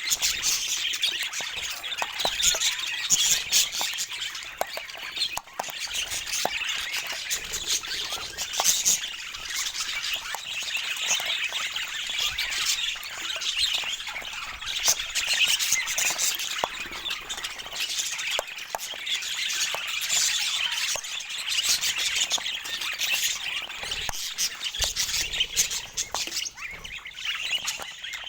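Budgerigars chattering and squawking without a break, a dense mix of warbles, chirps and short sharp calls.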